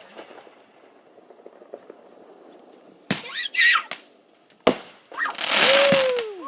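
Consumer fireworks going off: a sharp bang about three seconds in followed by a brief wavering whistle, a second bang, then a loud hiss with a whistle falling in pitch near the end.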